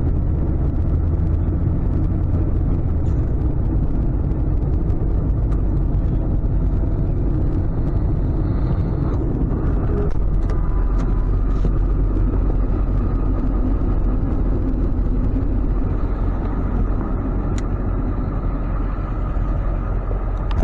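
Ford F-550 tow truck running, a steady low engine rumble whose low note shifts about eight to ten seconds in.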